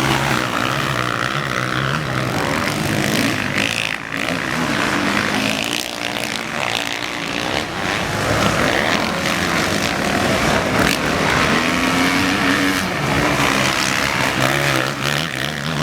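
Several motocross dirt bike engines revving up and down as they race, their pitch repeatedly rising and falling.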